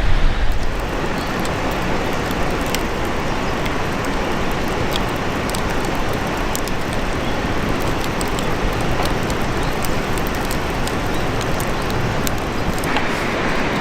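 Wood campfire crackling: scattered sharp pops over a steady rushing noise, with a brighter hiss coming in near the end.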